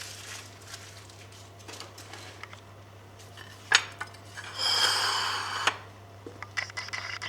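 Kitchenware being handled: a single sharp knock about three and a half seconds in, then about a second of metal scraping with a high ringing edge, and a few light clicks near the end.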